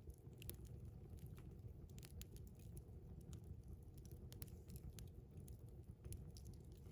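Faint, irregular crackling and popping of a campfire over a low, steady rumble.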